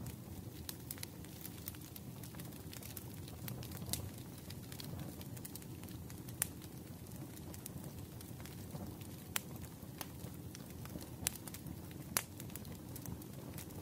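Wood fire burning in a fireplace: a low steady rumble with scattered crackles and a few sharp pops.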